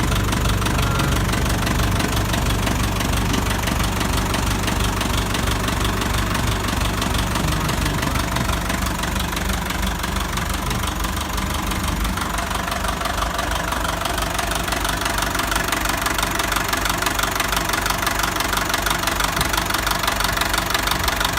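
Ferguson tractor engine idling steadily.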